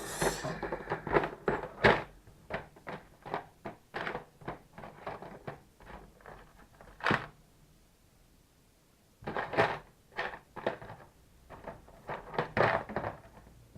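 Irregular clicks and knocks of small hard objects being handled: a screwdriver bit being swapped for a thinner one from a bit set. A short quiet pause falls about two-thirds of the way through, followed by more clicking.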